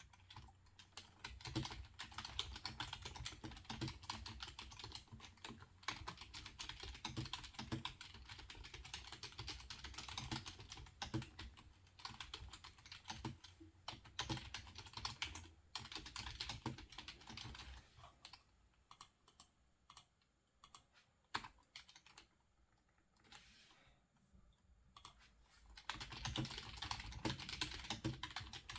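Typing on a computer keyboard in quick runs of keystrokes, then a pause of several seconds with only a few isolated clicks, and typing again near the end.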